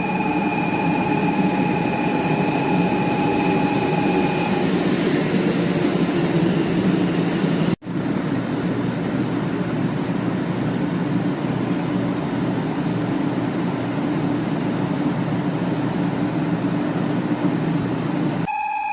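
500 series Shinkansen running at speed: a continuous rumble and rush of train noise, with a steady high whine over it that stops about four and a half seconds in. The sound cuts out for an instant near eight seconds, then the running noise carries on.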